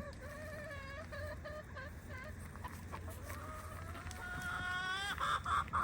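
Backyard chickens calling: two long drawn-out calls of about two seconds each, the second rising in pitch, then a few short clucks near the end.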